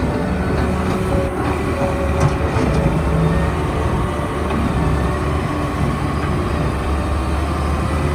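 Diesel engine of a Doosan DX140W wheeled excavator running steadily, with a few light knocks in the first few seconds.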